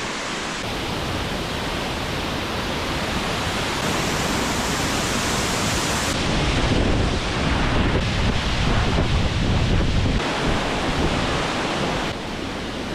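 Wind buffeting the microphone outdoors: a steady rushing noise with an uneven low rumble that grows stronger through the middle. The tone shifts abruptly a few times.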